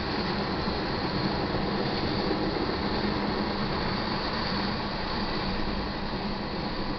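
A freight train's cars rolling past, with the steady sound of steel wheels running on the rails.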